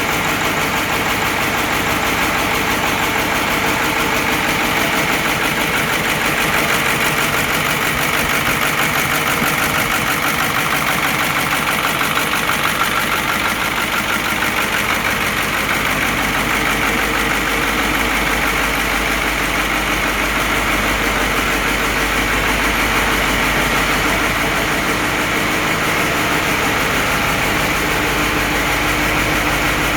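Caterpillar 3208 V8 diesel in a White 2-180 tractor idling steadily while still cold, soon after a cold start at 18 degrees with no ether and no block heater.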